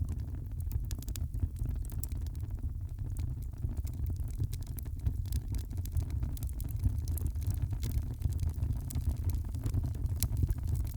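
Wood fire crackling in a fireplace: irregular sharp pops and snaps over a steady low rumble, the pops coming more often in the second half.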